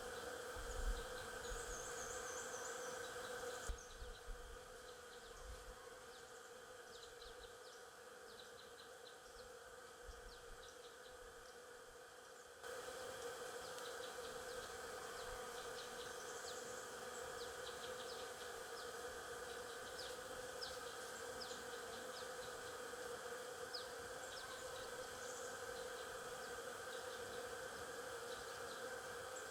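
Steady buzzing hum of a swarm of stingless bees, with short high chirps scattered over it. The hum drops away about four seconds in and returns suddenly about halfway through.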